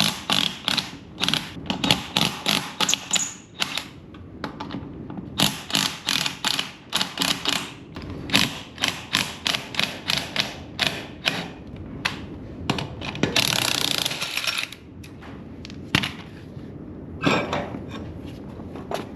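Metal tool work on a trailer being jacked up: long runs of quick metallic clicks and clanks, about three or four a second, broken by short pauses, with a brief rushing noise about two-thirds through and a few single knocks near the end.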